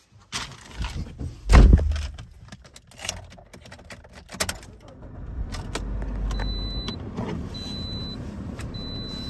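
Clicks and a heavy thump, then a 2012 Toyota Corolla's four-cylinder engine starting about five and a half seconds in and settling into a steady fast idle just after a cold start. A dashboard warning chime beeps about once a second over the idle.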